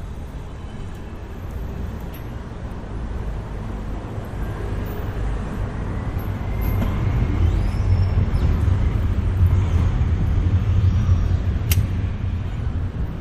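A motor vehicle passing on a city street: a low rumble that swells from about halfway through and eases near the end, with a faint whine over it and one sharp click near the end.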